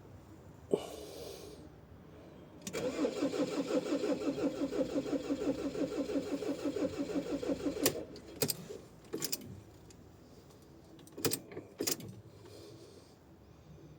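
Ford Ranger's starter cranking the engine in about -10 °C cold for about five seconds with an even, rapid beat. It stops without the engine catching, and a few clicks follow.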